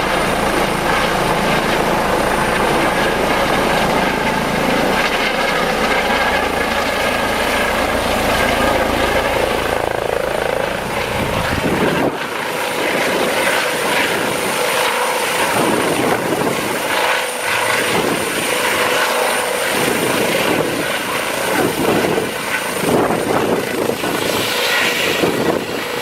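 Emergency helicopter landing close by: rotor beating with a thin, steady high turbine whine. About halfway through, the deep rotor beat drops away and the sound turns to uneven, gusty rushing.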